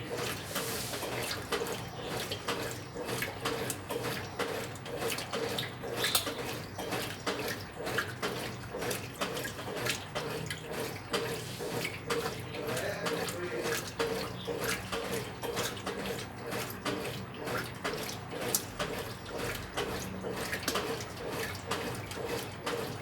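Brastemp 9 kg washing machine with water splashing and churning in its tub during the wash cycle, a steady watery noise that swells and falls in an uneven rhythm.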